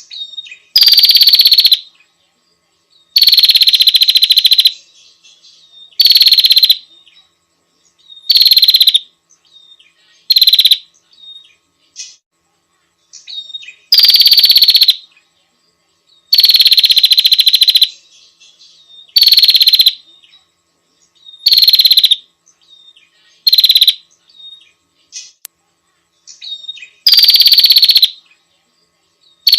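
Female prinia (prenjak) calling a male with a loud, rapid trill, given in bursts of one to two seconds about every two to three seconds, with faint chips between the bursts.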